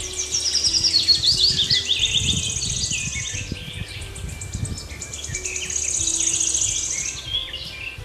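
Birds chirping and calling in quick falling phrases, with high rapid trills twice, over a faint low hum.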